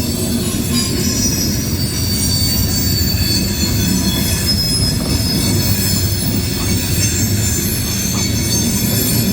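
Loaded coal train's steel wheels rolling fast over the rails in a steady, loud rumble, with a high-pitched squeal of wheel flanges against the rail running through it.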